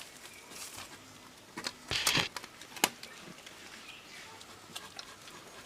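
Jamunapari–Saanen cross goats feeding on leaves: rustling and tearing of foliage with scattered crisp clicks of chewing. A louder rustle comes about two seconds in, followed by a sharp snap.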